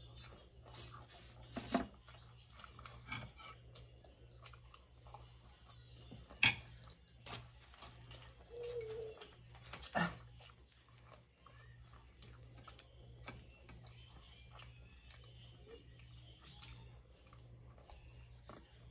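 Close-miked chewing and wet mouth sounds of a person eating soft food and naan bread, with a few louder sharp clicks about 2, 6.5 and 10 seconds in. A faint low hum pulses steadily underneath.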